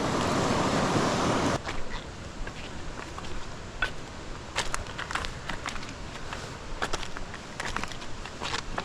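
Steady rush of water from a creek waterfall that cuts off abruptly about a second and a half in. It gives way to a quieter outdoor background with scattered sharp clicks and rustles.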